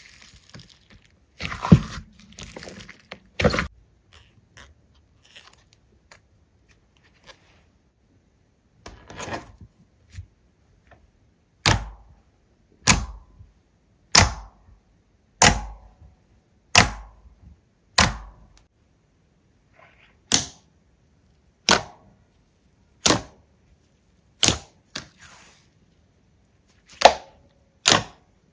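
Hand-played slime: a few stretching, squelching sounds, then from about halfway through a sharp sticky pop or slap roughly every 1.3 seconds, about a dozen in all.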